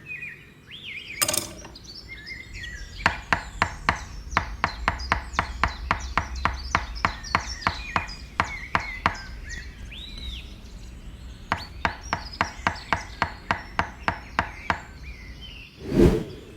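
Rapid, evenly spaced knocks, about three or four a second, as of chopping or tapping with a hand tool, in two runs with a pause between them. Birds chirp faintly behind them.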